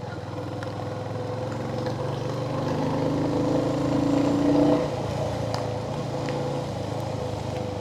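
Royal Enfield Hunter 350's single-cylinder engine running while riding, pulling harder and rising a little in pitch for a couple of seconds before easing off about five seconds in.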